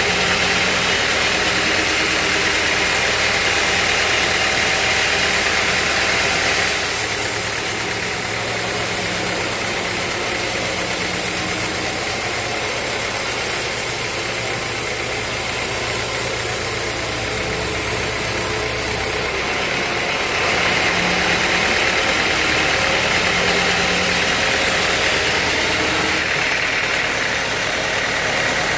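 Sawmill machinery running with a steady engine-like drone, its tone shifting about seven seconds in and again around twenty and twenty-six seconds in.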